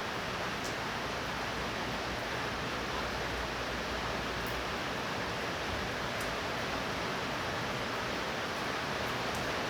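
Heavy rain from a tropical thunderstorm falling in a steady hiss, with a few faint ticks.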